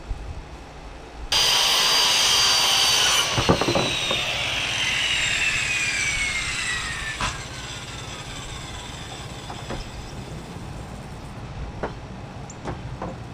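Electric power saw cutting old barn wood: it starts suddenly about a second in, runs loud for about two seconds, then its whine falls steadily in pitch for several seconds as the blade spins down, with a few wooden knocks as the cut ends. A few light knocks near the end.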